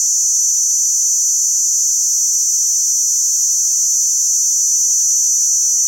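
Two crickets calling together in a steady, unbroken high-pitched trill.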